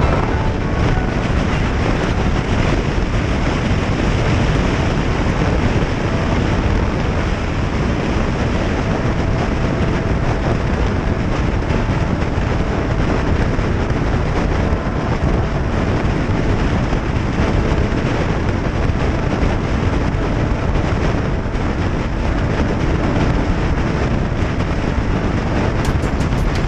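Motorcycle riding at a steady pace: continuous engine, road and wind noise with no changes.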